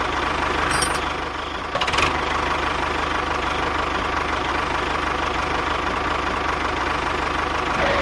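A small engine running steadily with a fast, even chugging, and a couple of short knocks about one and two seconds in.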